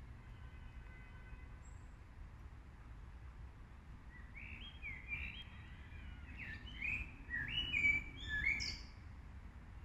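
Birds chirping: a quick run of short calls that rise and fall, starting about four seconds in and ending about a second before the end, over a steady low background rumble.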